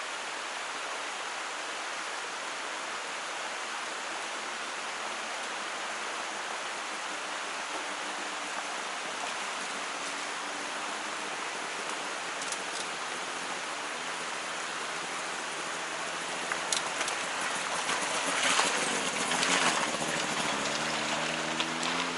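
Steady rushing of a clear mountain stream and waterfall. In the last few seconds a few sharp knocks and rustles and a low hum come in over the water.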